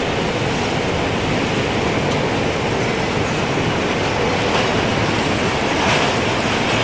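Gusting wind blowing steadily with a dense low rush that swells slightly near the end, with a few faint high tinkles from a wind chime.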